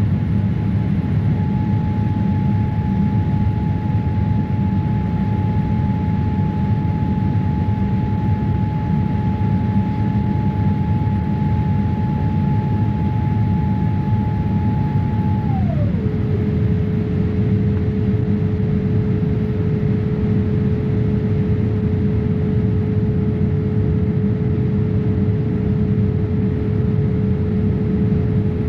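Steady cabin rumble of a Boeing 787-8 airliner, with a steady whine that slides down to a lower pitch about halfway through and holds there.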